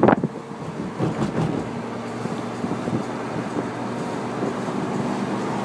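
Lamborghini Gallardo's V10 engine running steadily as the car drives, heard from inside the open-top cabin, after a brief loud burst at the very start.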